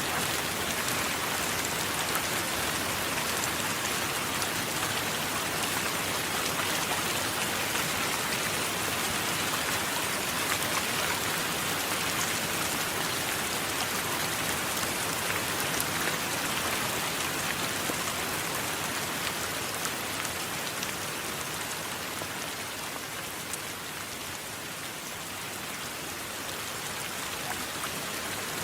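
Steady rain: a dense, even hiss sprinkled with sharp drop ticks. It eases slightly about three-quarters of the way through, then builds again.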